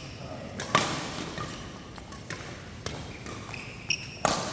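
Badminton rackets striking a shuttlecock in a doubles rally: sharp separate hits, about one every second or so, with a couple of short high squeaks near the end.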